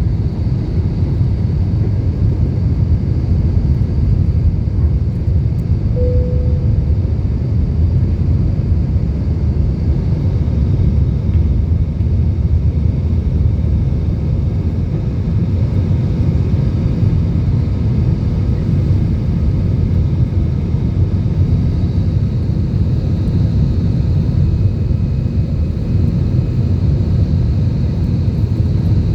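Jet engines of an easyJet Airbus A320-family airliner running at high thrust during takeoff and climb, heard as a loud, steady, deep rumble inside the cabin. A short tone sounds once about six seconds in.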